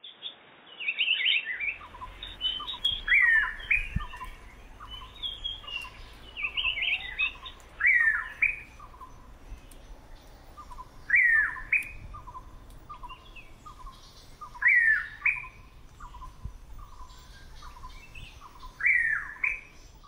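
Blue pitta calling: a loud whistled call repeated about every three to four seconds, each a falling note that turns up at the end. Behind it runs a steady series of short, lower notes, two or three a second.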